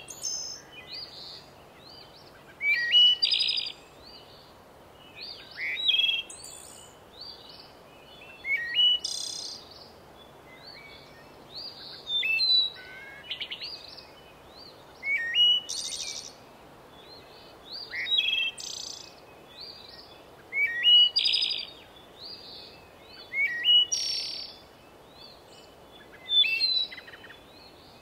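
A small bird singing short chirping phrases about every three seconds, each a quick run of high whistled notes.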